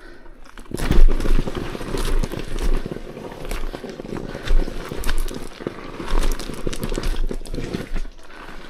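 Dirt bike being eased down a rocky downhill trail: irregular crunching, knocking and rattling as the tyres and bike go over rocks and dirt, with a low rumble underneath.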